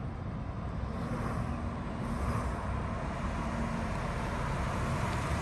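Car engine and road noise while driving: a steady low rumble that slowly grows louder.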